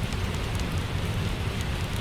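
Steady rain with a low rumble underneath, and a few faint scattered ticks that may be fire crackles.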